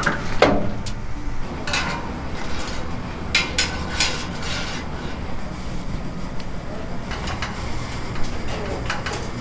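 Steady low hum with a few short, sharp clinks and knocks of metal or tableware, about two seconds in and again around four seconds in.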